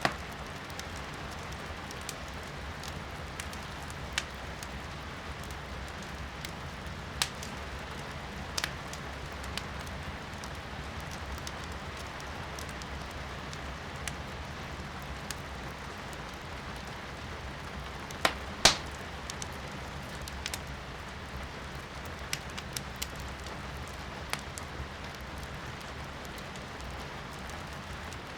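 Firewood burning in a fireplace, crackling and popping with scattered sharp snaps, the loudest a quick pair about two-thirds of the way through, over a steady hiss of rain heard from indoors.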